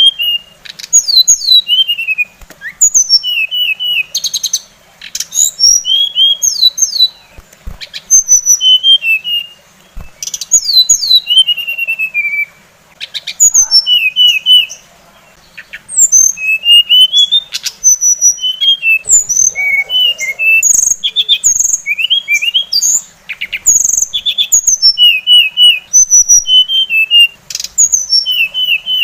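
Songbird singing a fast, varied song of sharp chirps, short whistled notes and buzzy trills, in bursts of a second or two separated by brief pauses.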